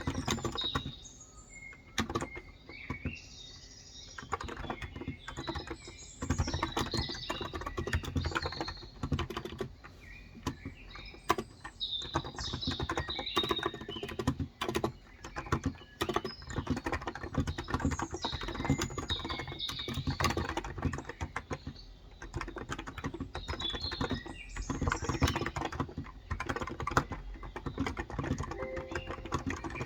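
Typing on a Cox Endeavor electro-capacitive (Topre-style) 35 g tenkeyless keyboard, in runs of quick keystrokes broken by short pauses. Birds chirp in the background.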